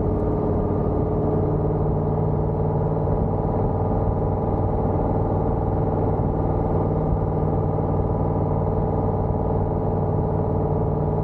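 Exhaust of a cammed C5 Corvette Z06's LS6 V8, with headers and Borla ATAK mufflers, running steadily at an unchanging engine speed.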